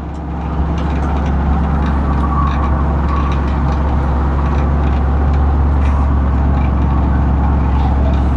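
Pickup truck's V8, fitted with a Brian Tooley Racing Stage 1 truck cam, running as a steady low drone heard from inside the cab; it gets a little louder about half a second in.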